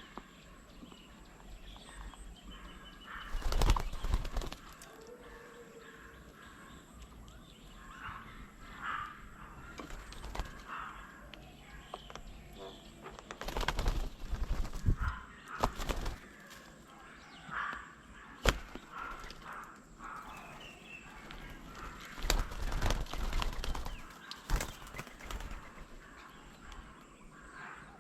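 Birds at an outdoor bird table: three bouts of wing flapping, with scattered chirps and calls and a few sharp taps between them.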